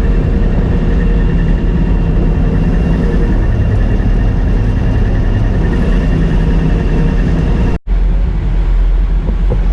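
Combine harvester running steadily while harvesting soybeans: a loud engine and separator drone with a faint steady whine above it. The sound cuts out for a split second about eight seconds in.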